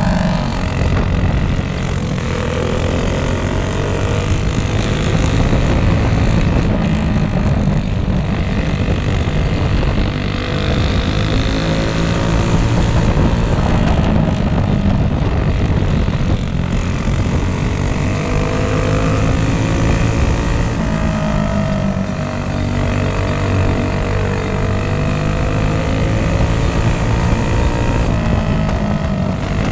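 Go-kart engines running hard on a dirt oval, their pitch rising and falling over and over as the throttle opens and closes.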